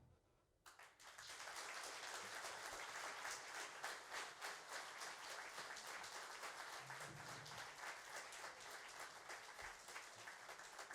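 Audience applauding, with many hands clapping; it starts abruptly just under a second in and keeps up steadily.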